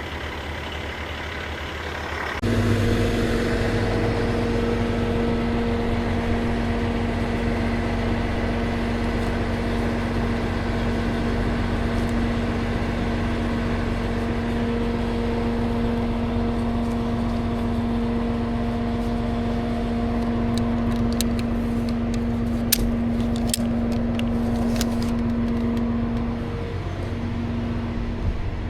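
Tow truck running, a steady humming drone that comes in suddenly and louder about two seconds in and holds on one pitch. A scatter of sharp clicks near the end.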